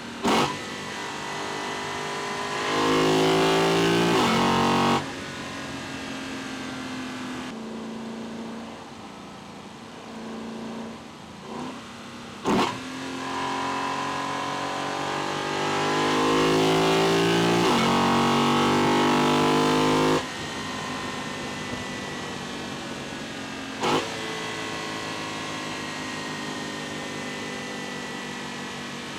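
Lexus LC 500's 5.0-litre V8 induction noise, heard from inside the engine bay while driving. There are two hard pulls in which the intake note rises, dips through a gear change, rises again and cuts off suddenly as the throttle closes. Three short, sharp loud bursts stand out: one at the start, one about midway and one near the end.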